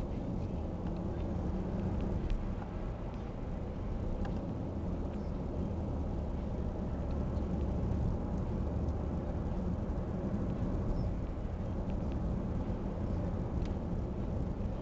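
Engine of construction machinery running steadily in a low rumble, with a few faint clicks and knocks scattered through.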